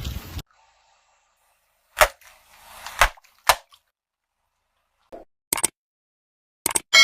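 A handful of short, sharp cracks, one at a time with dead silence between them, about six over several seconds. Right at the end a metallic ding starts to ring.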